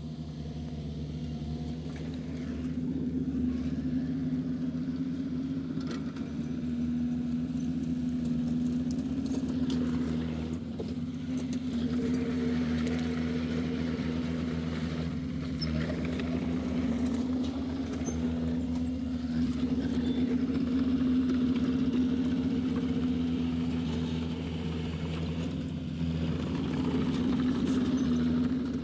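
Heavy diesel engine of a dump truck or bulldozer running steadily at an even pitch, its loudness swelling and easing slightly a few times.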